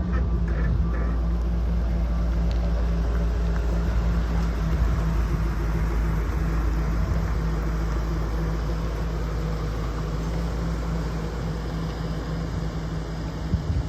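2004 Ford F-250 Super Duty truck's engine idling steadily.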